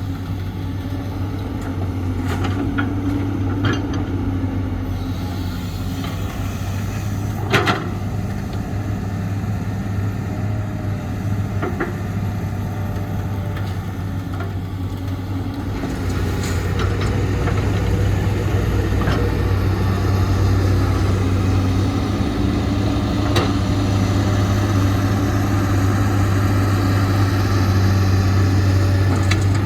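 Excavator's diesel engine running steadily, getting louder about halfway through, with a few sharp metallic knocks.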